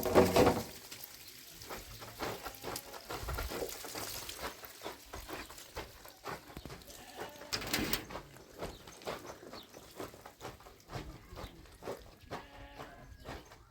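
A farm animal bleating once near the end, among scattered knocks and clatter, with one louder knock at the start.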